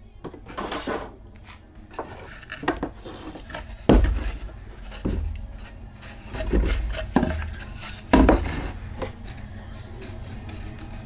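Irregular wooden knocks and clunks with some rubbing, from pieces of pallet wood being handled and set down; two heavier knocks come about 4 and 8 seconds in.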